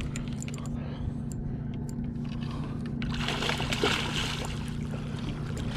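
A hooked catfish thrashing at the water's surface beside the boat: splashing starts about three seconds in as the fish is brought to the boat. Under it a steady low hum runs, from the electric trolling motor holding spot-lock.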